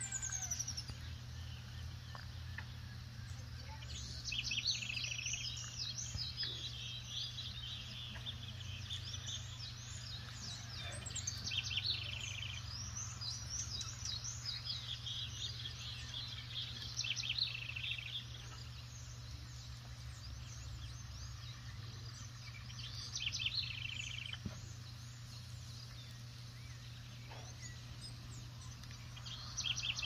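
Songbirds singing in short bursts of quick, repeated high notes every several seconds, over a steady low rumble.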